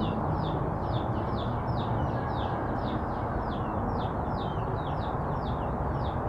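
A small bird chirping over and over, a short falling chirp about three times a second, over a steady low background noise.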